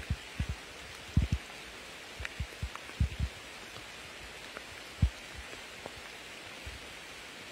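Rain falling in a forest: a steady hiss, with irregular low thuds of heavier drops landing, the loudest about a second, three seconds and five seconds in.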